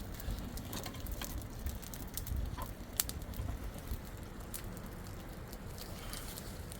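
Irregular sharp crackles and clicks over a steady low rumble, with one louder click about three seconds in.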